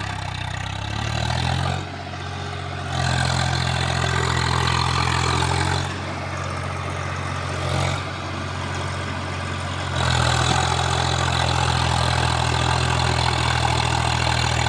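Tractor diesel engine running under changing throttle, its note stepping up about three seconds in, dropping back near six seconds, and rising again at about ten seconds.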